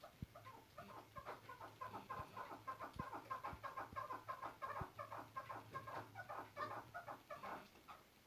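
Chukar partridge calling: a fast, continuous run of short clucking notes, several a second.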